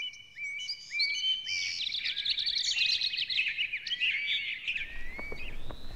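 Birds chirping and singing, a few clear chirps at first, then a thick run of quick chirps and trills that thins out near the end.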